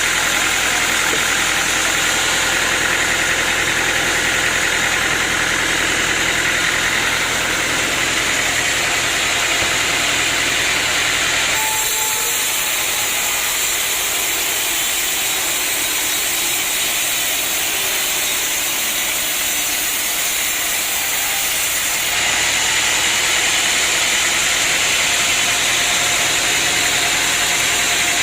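Sawmill machinery running steadily with a dense mechanical noise. The sound changes abruptly about twelve seconds in, losing its low rumble and gaining hiss, and switches back about ten seconds later.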